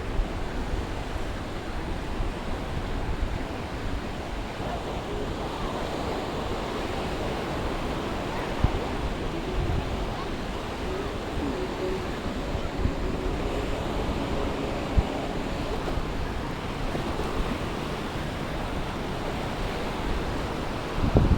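Sea surf washing onto the beach in a steady rush, with wind buffeting the microphone in a few brief low thumps.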